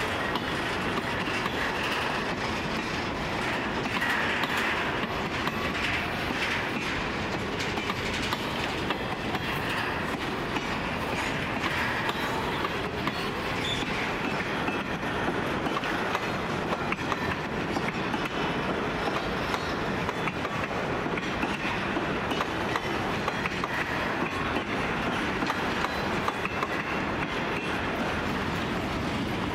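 Loaded grain hopper wagons rolling past on the rails: a steady rumble of steel wheels on track, with clicks as the wheels pass over rail joints.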